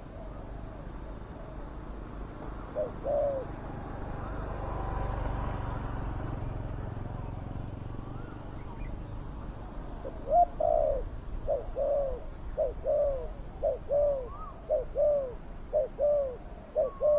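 Spotted dove cooing: a couple of deep arched notes about three seconds in, then from about ten seconds in a quick, steady run of coos, roughly two a second. A low rush of noise swells and fades in the middle.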